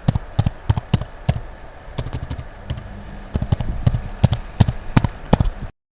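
Typing on a computer keyboard: a quick, irregular run of key clicks that stops abruptly near the end.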